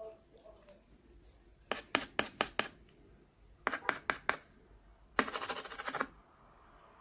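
Carving tool scraping across a signet in short, sharp strokes: two quick runs of four or five strokes, then a longer rasping scrape about five seconds in.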